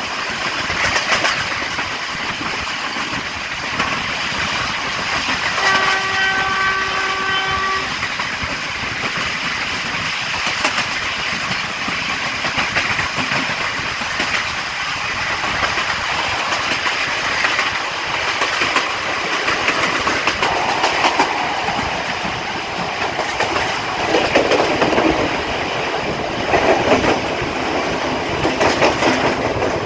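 Passenger train hauled by a Sri Lankan Class M6 diesel locomotive running at speed, heard from the side of a carriage: steady wheel-on-rail rumble and wind with the clickety-clack of the wheels over rail joints. About six seconds in the locomotive horn sounds one steady note for about two seconds, and near the end the wheels clatter louder over the points at the approach to a station.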